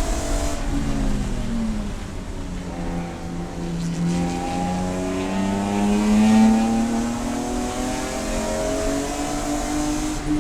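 Race car engine running hard on track, its pitch dropping over the first couple of seconds as it slows, then climbing steadily as it accelerates back up through the revs.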